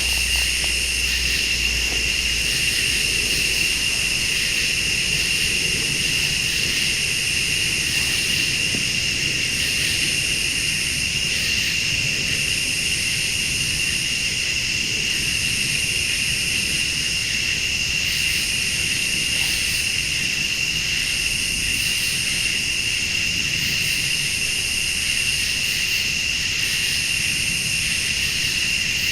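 Night chorus of crickets and other late-summer insects: a steady high trill, with a still higher pulsing chorus that comes and goes every couple of seconds. A faint low rumble runs underneath.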